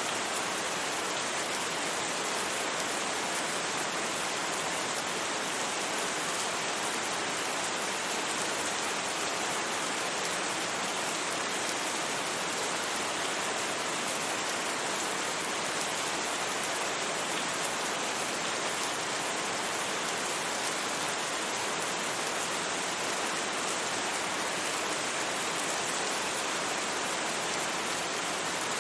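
Steady rain without thunder: an even, unbroken hiss with no separate drops or changes.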